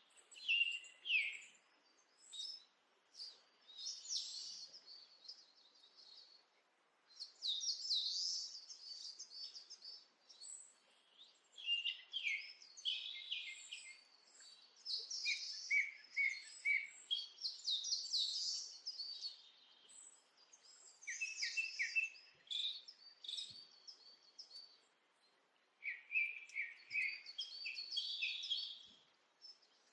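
Birds singing: bouts of quick, high chirping phrases a few seconds long, returning again and again with short pauses between them.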